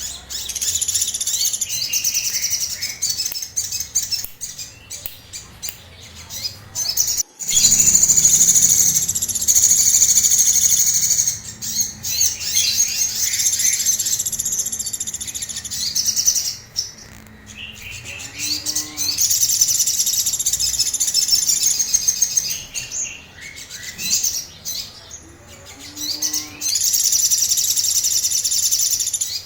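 A sogon (ruby-cheeked sunbird) singing its excited 'emosi' song: long runs of rapid, high-pitched chattering notes, several seconds each, broken by short pauses.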